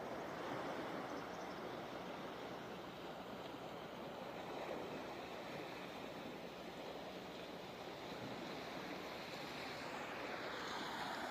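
Steady rushing noise of wind and rolling tyres on a moving bicycle.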